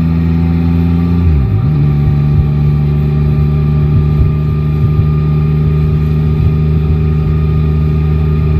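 Yamaha Tracer 9 GT's inline three-cylinder engine running under way. About a second and a half in the revs dip sharply and recover, as at a gear change, and it then holds steady at slightly lower revs.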